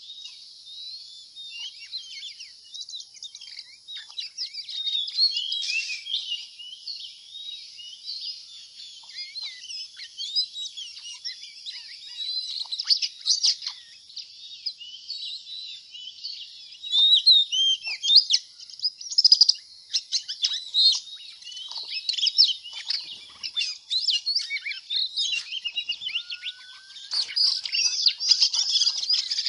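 Many small birds chirping in a dense, continuous chatter of short overlapping calls and trills, getting louder and busier in the last few seconds.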